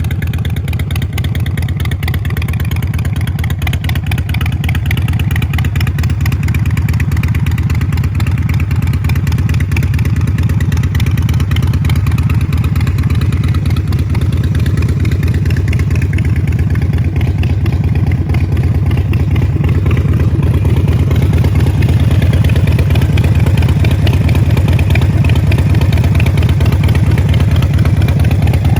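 Harley-Davidson Sportster 48's air-cooled V-twin idling steadily through Vance & Hines Short Shots exhaust, a fast, even low pulse, shortly after a cold start following winter storage.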